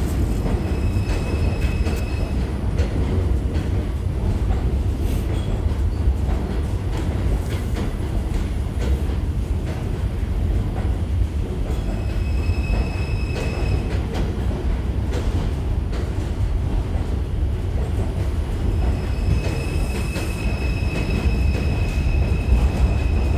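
Bombardier R142 subway train running through a station without stopping: a steady low rumble of wheels on rail, with clicks over the rail joints. A high wheel squeal comes and goes, three times, the longest near the end.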